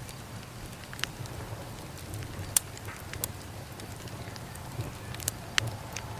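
Wood fire crackling: irregular sharp pops and snaps over a low steady rumble, the loudest pop about two and a half seconds in.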